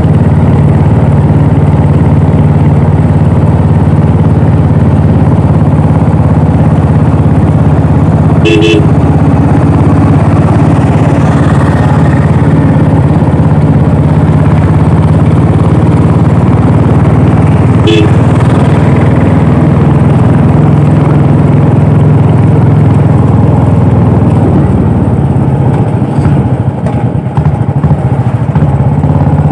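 Royal Enfield Classic 350 single-cylinder engine and exhaust running steadily on the move. A vehicle horn toots briefly twice, about nine seconds apart.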